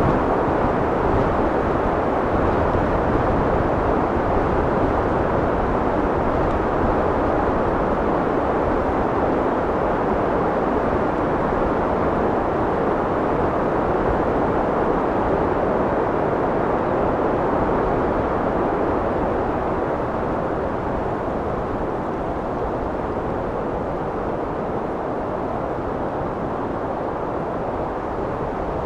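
Steady wind noise, a dense, even rushing that eases slightly in level over the last third.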